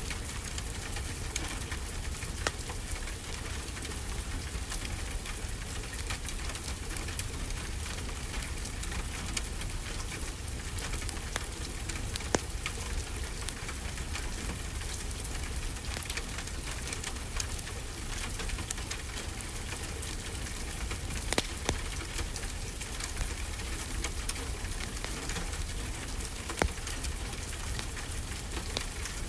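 Steady rainfall with the crackle of a wood fire, and a few louder sharp pops scattered through.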